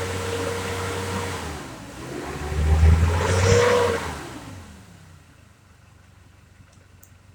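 2009 Nissan D40 Navara's 2.5-litre four-cylinder turbo diesel running, then revved once about two seconds in before the revs fall away and it goes much quieter.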